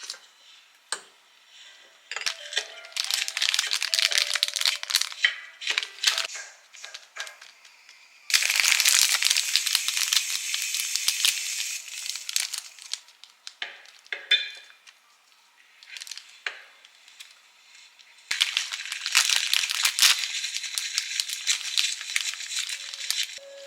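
Plastic packaging crinkling as it is handled, in three long bursts of dense crackling with quieter gaps between.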